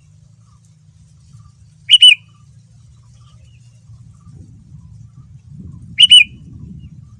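Sooty-headed bulbul (kutilang) giving two short, loud calls about four seconds apart, each a quick pair of notes. A faint low hum runs underneath.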